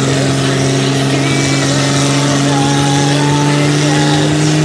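Jeep engine held at high revs during a burnout, a steady, loud drone that creeps slowly up in pitch, over the hiss of tyres spinning against the ground.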